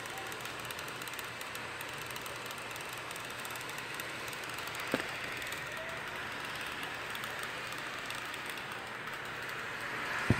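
Cooling fans of a 2016 Razer Blade Pro laptop running with a steady airy whoosh, the excessive fan noise the owner calls a defect still present after repair. A single click sounds about halfway, and a few clicks come at the very end.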